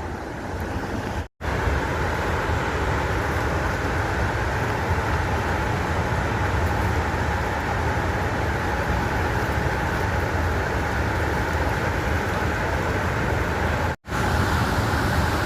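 Waterfall roaring steadily: a constant rush of falling water with a deep rumble underneath. The sound cuts out completely for an instant twice, about a second in and near the end.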